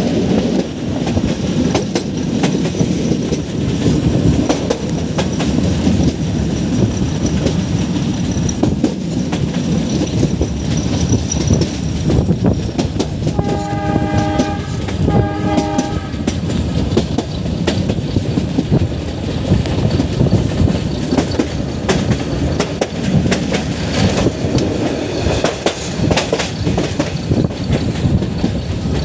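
Meter-gauge passenger train running, its wheels clattering over the rail joints over a steady rumble. About halfway through, the locomotive's horn sounds two short blasts in a row.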